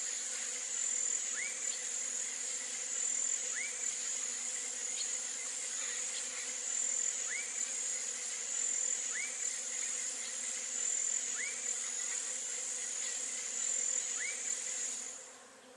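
Outdoor insect chorus: a steady, high-pitched trill that runs without a break. A short rising call repeats about every two seconds over it. All of it fades out near the end.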